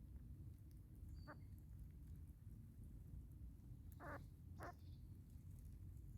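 Faint forest bird calls over a low rumble: a short high chirp and a brief call about a second in, then two short calls close together about four seconds in.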